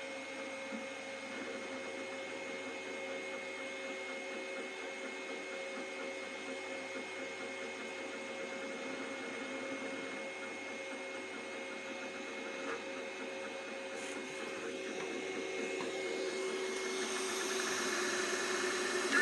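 Two Trees Sapphire Plus CoreXY 3D printer printing, its stepper motors whining in steady tones over a mechanical hum. It grows louder in the last few seconds.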